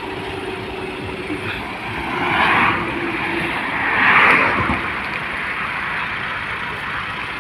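Steady road-vehicle noise, with two louder swells about two and four seconds in, like vehicles passing close by.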